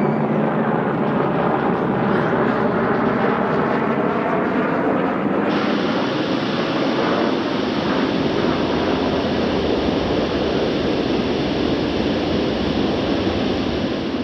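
Jet airliner engine noise, a steady, loud, continuous rumble. About five seconds in, a higher hiss suddenly joins it.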